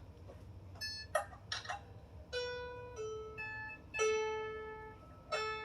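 Strings of a 16-string lyre harp plucked one at a time during tuning: a few short, quickly damped plucks, then about five single notes near the same pitch, each ringing and fading, as a string is checked and brought into tune.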